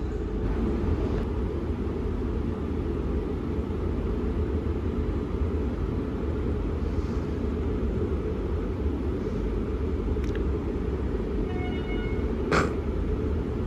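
Siemens electric suburban train running through the station with a steady low rumble. A brief sharp knock comes near the end.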